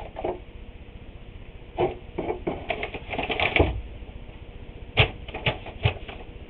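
Objects being handled on a wooden workpiece: a run of clattering knocks, then three sharp separate knocks about half a second apart near the end.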